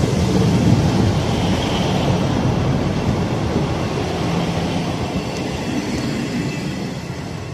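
GWR passenger train moving past close by: a steady, loud rumble of wheels on rail, fading gradually near the end as the train draws away.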